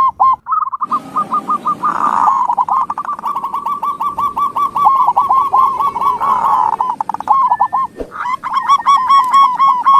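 Zebra doves (perkutut) cooing: a dense, continuous run of short, hooked notes, several a second, with more than one bird overlapping. The run breaks off briefly near the end. This is a lure recording used to prompt a silent dove to answer.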